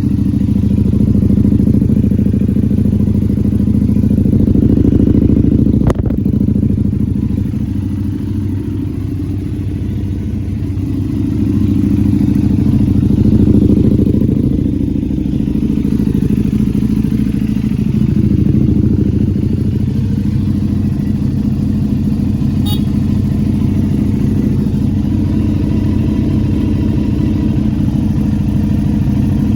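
KTM 990 Super Duke R's V-twin idling through an Akrapovic exhaust while warming up from a cold start, the idle swelling slightly a couple of times. A single sharp click about six seconds in.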